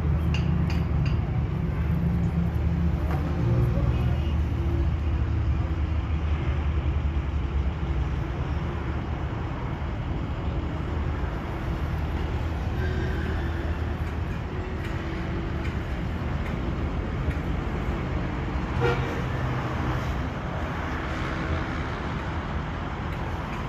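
Truck engine running in road traffic, with horns sounding on and off.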